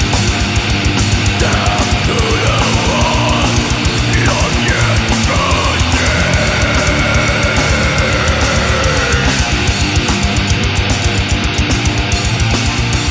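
Death-doom metal music: heavy distorted guitars over a fast, even kick-drum pulse. A lead melody bends through several notes, then holds one long high note from about six seconds in to about nine.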